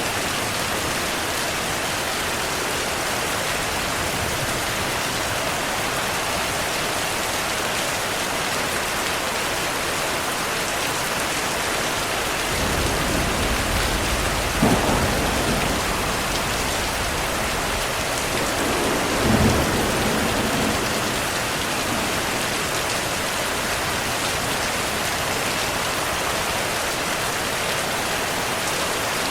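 Heavy rain falling steadily. A little before halfway, thunder rumbles for several seconds, with two louder claps a few seconds apart.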